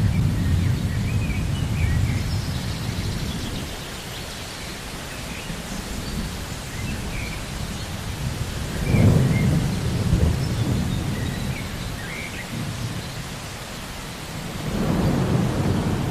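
Steady rain with rolling thunder: low rumbles that swell at the start, again about nine seconds in, and once more near the end.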